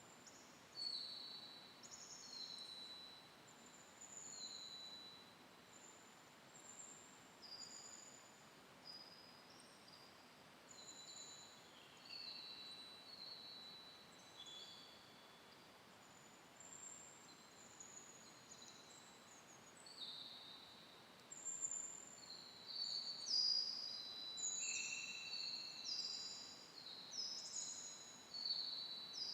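Several small songbirds calling and singing: many short, high chirps, often falling in pitch, overlapping and getting busier over the last several seconds, over a faint steady hiss.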